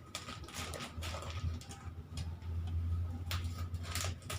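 Plastic snack packets being handled and packed: scattered clicks and short crinkling rustles, over a low hum that runs from about a second in until just before the end.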